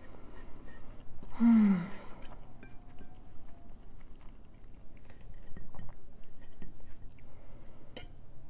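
A person chewing a mouthful of pancake, with small mouth and cutlery clicks and a light clink of a fork near the end. About a second and a half in, a short hum from the voice falls in pitch; it is the loudest sound.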